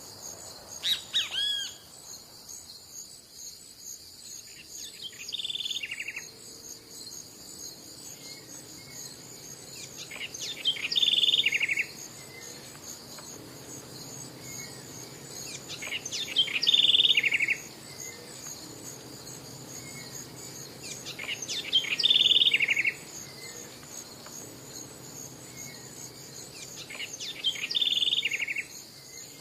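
A songbird repeating the same short song phrase five times, about every five and a half seconds, over a steady high chirring of insects such as crickets.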